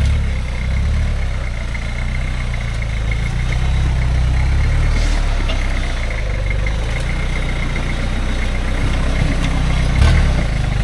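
Toyota LN106 Hilux's 3.0 turbo-diesel engine running at low revs while the truck crawls along, with a steady high-pitched whine over the engine and a single thump about ten seconds in.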